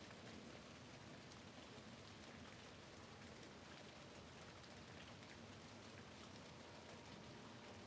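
Faint, steady rain, with scattered drops ticking against a window pane.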